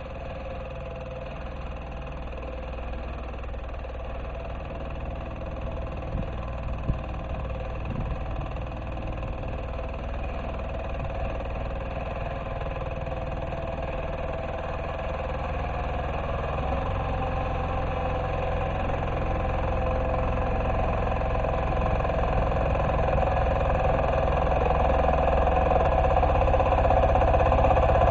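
Diesel engine of a Neva MB-2 walk-behind tractor running steadily under plowing load, growing steadily louder.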